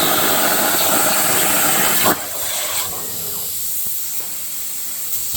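Plasma cutter on a CNC plasma table cutting steel, a loud steady hiss that cuts off abruptly about two seconds in, leaving a quieter hiss of air.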